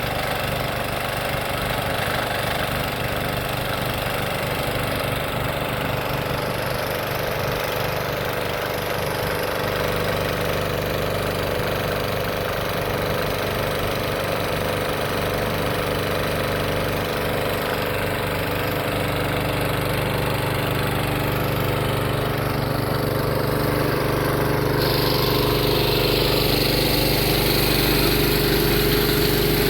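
Tractor engine running steadily at idle. A little before the end it grows slightly louder and a hiss joins it.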